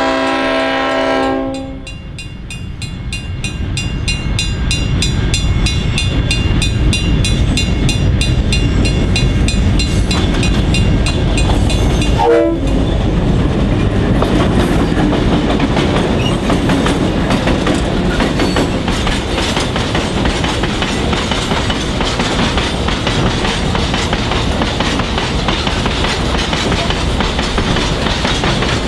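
A narrow-gauge diesel freight train sounds its horn for a second or so at the start. A level-crossing bell then rings rapidly as the locomotive approaches, with a brief horn note about twelve seconds in. After that the locomotive and a long string of loaded hopper wagons rumble steadily past, wheels clacking over the rail joints.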